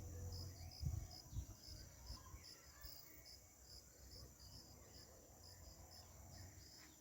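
Faint insects chirping outdoors in short high pulses about twice a second over a steady high-pitched hum, with low rumbling and a couple of soft thumps in the first second and a half.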